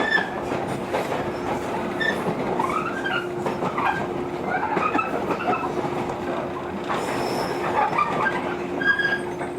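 JR 115 series electric train running between stations, heard from inside the passenger car: a steady hum over the running rumble, with the wheels squealing in short sliding tones again and again.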